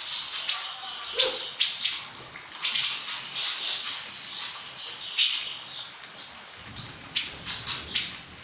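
Grey-cheeked bulbul (cucak jenggot) calling: short, sharp, high chirps given in quick clusters, about a second in, around two to three seconds in, at five seconds, and again near the end.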